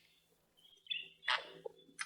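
Small caged pet birds chirping: after a quiet first second, a few short high chirps come in quick succession, then a louder single call.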